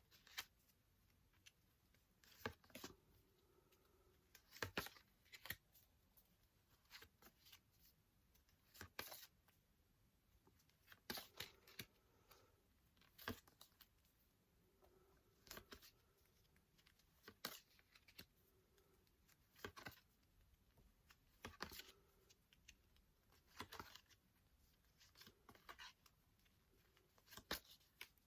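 Paper sound flashcards being flipped over one at a time, a short rustling snap about every two seconds with quiet in between.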